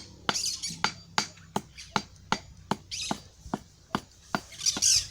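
A trowel tapping on bricks and clay mortar, sharp taps about three times a second, with a few short scrapes.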